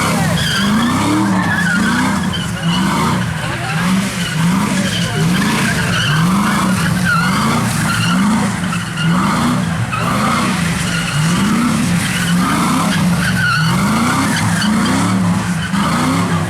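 A car doing donuts on a wet road: the engine revs up and drops back about once a second, and the tyres spin and skid.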